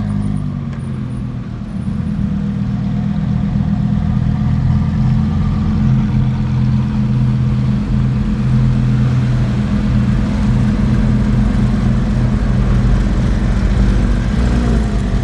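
Lamborghini Huracan STO's V10 engine running at low, steady revs with a deep note, getting a little louder about two seconds in.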